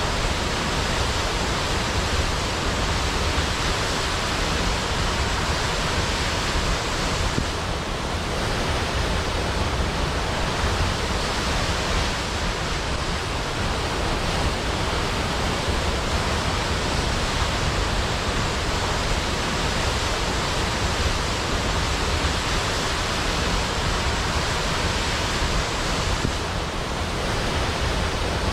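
Large waterfall crashing into a pool: a dense, steady rush of water, heavy in the low end.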